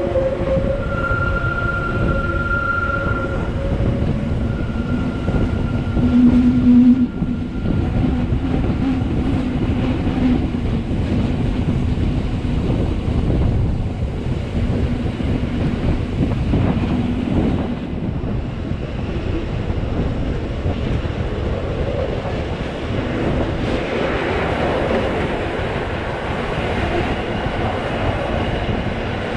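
Rhaetian Railway ABe 8/12 Allegra electric train running downhill, heard from a carriage window: a steady rumble of wheels on rail. Several held tones sound over it in the first few seconds, and a louder short tone comes about six seconds in.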